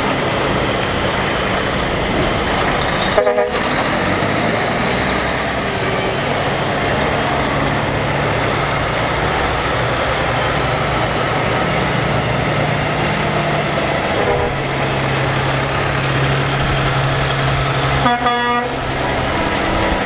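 Heavy trucks' engines running steadily as they pass, with two short air-horn blasts, one about three seconds in and one near the end.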